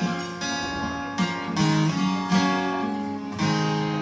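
Acoustic guitar strumming chords with no singing over it, the last chord left ringing near the end.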